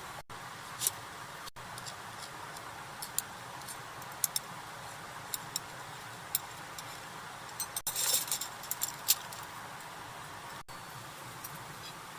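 Scattered light clinks and ticks of small hard items being handled, most of them about eight to nine seconds in, over a steady hiss.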